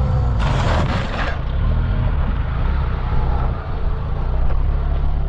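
A machine engine running with a steady low drone. A sharp burst of hiss lasts about a second, starting about half a second in.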